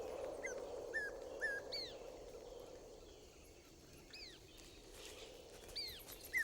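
Carunculated caracaras calling: several short, high calls, each rising quickly and then dropping in pitch, scattered across the few seconds, some in quick pairs, over a faint steady background hiss.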